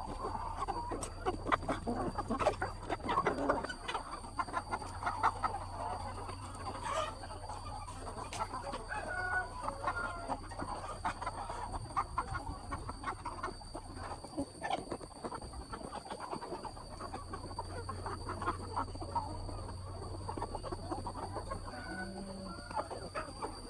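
A flock of chickens clucking and calling over one another, with many short, irregular calls throughout. Underneath there is a steady low hum and a faint, steady high-pitched tone.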